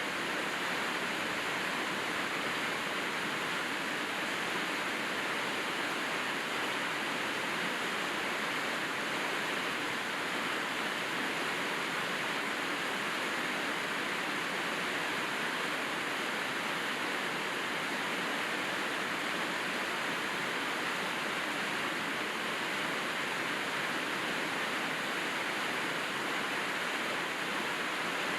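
Steady heavy rainfall: an even, unbroken hiss with no single drops standing out.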